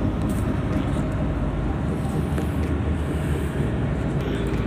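Steady rumble of a car on the move: engine and road noise running evenly.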